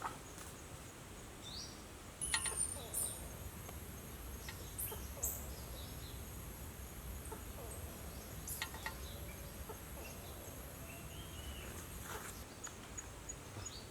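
Faint bird calls: short chirps over a steady, very high-pitched buzz that starts about two seconds in and stops near the end, with scattered clicks.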